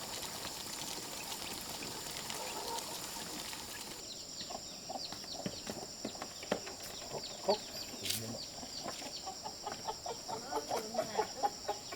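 A flock of chickens clucking and calling, with many short, high calls. The calls start about four seconds in and grow busier towards the end.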